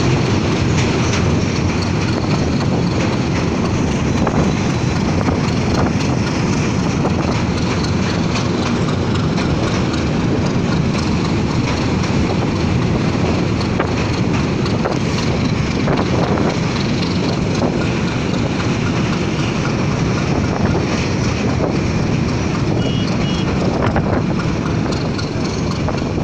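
A passenger train running at speed, heard from on top of a carriage: a steady, loud rush of wheels on the track and wind.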